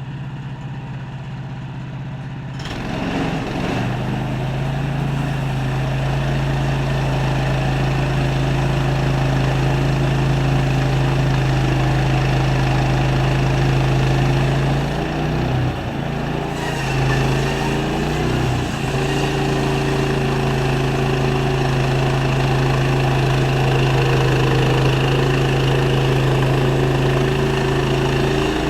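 Sawmill's engine running steadily. About two and a half seconds in the sound grows louder and fuller, and around the middle its pitch wavers briefly before settling again.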